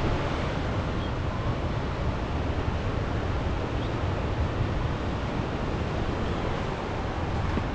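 Steady rushing of a river in heavy flood, with a strong low rumble.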